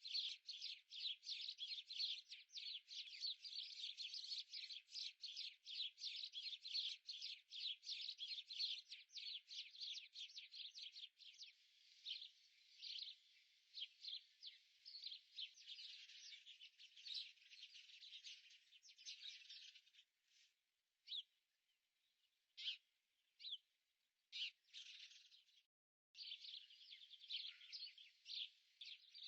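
Small birds chirping in a quick, dense run of short chirps that thins to a few scattered calls about two-thirds of the way through, then picks up again near the end.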